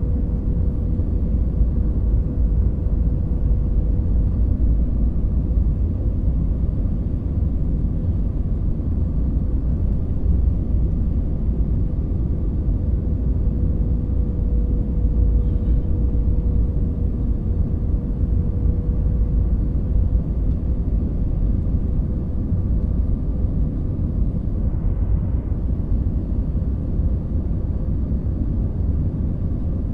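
Jet airliner cabin noise in flight: a steady low rumble of engines and airflow with a faint constant hum.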